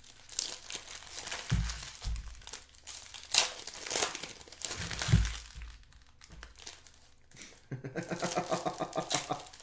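Trading card pack wrappers crinkling and tearing as packs are opened and handled, with a few dull thumps on the table.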